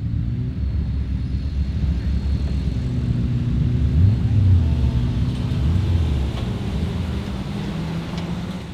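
Autograss racing car engines running on the track, getting louder about four seconds in and then easing off.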